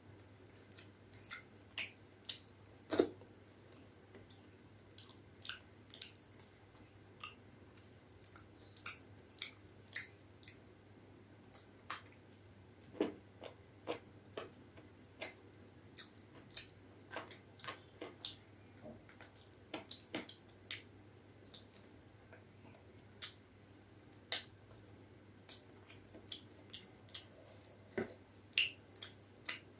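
Close-miked eating sounds: irregular wet mouth clicks and smacks of chewing and biting, a few to several a second with short pauses, over a faint steady hum.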